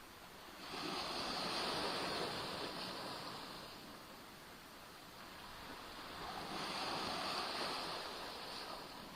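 Small Black Sea waves washing onto the shore: two waves, one starting about a second in and another near the end, each rising quickly to a splash and hiss and then fading away over a few seconds.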